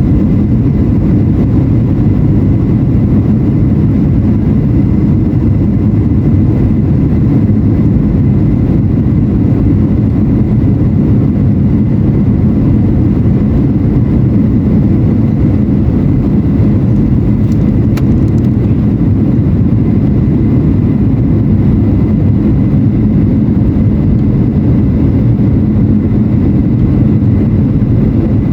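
Steady roar inside a Boeing 737-800's passenger cabin: its CFM56-7B jet engines and the airflow over the fuselage, heavy in the low end and even in level throughout.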